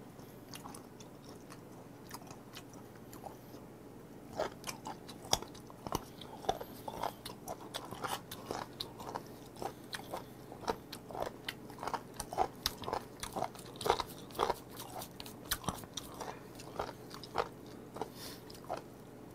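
Close-miked chewing and biting of raw seafood, a quiet stretch and then, from about four seconds in, a dense run of short crisp crunches and wet clicks.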